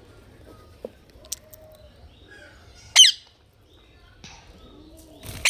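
A pet parrot giving two short, loud squawks, one about three seconds in and another near the end.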